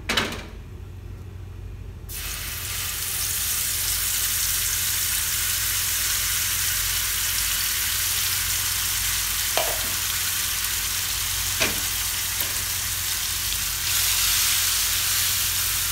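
Ground chili paste dropped into hot oil in a nonstick frying pan starts sizzling suddenly about two seconds in, then sizzles steadily with a few light knocks. The sizzle grows louder near the end as the paste is spread and stirred with a spatula.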